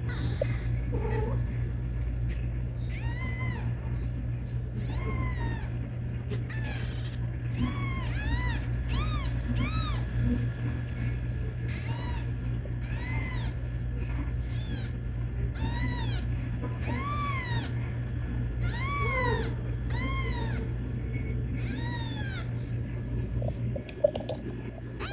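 Kittens meowing again and again in high, arched calls that rise and fall in pitch, about one a second. A steady low hum runs underneath.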